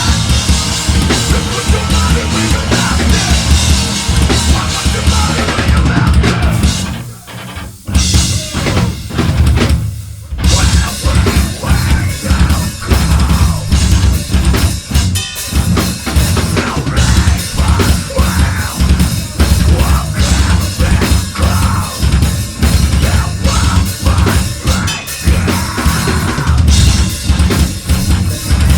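A live metal band playing loud, with distorted guitars over heavy drumming and pounding bass drum. The band stops short twice, about seven and ten seconds in, then comes straight back in.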